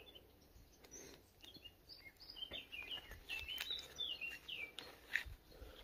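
Songbird chirping: a quick run of short high notes through the middle, with faint rustling and light knocks of someone moving through forest undergrowth.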